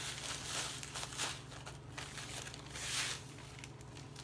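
Measuring cup scooping graham cracker crumbs in a plastic zip-top bag: several bouts of rustling and scraping, over a low steady hum.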